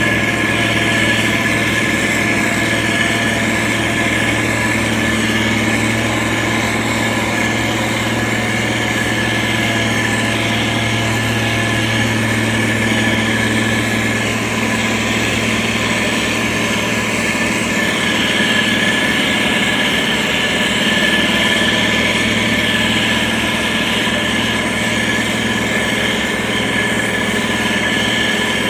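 SANY STG190C-8S motor grader's diesel engine running steadily, a constant low hum with a steady high whine over it.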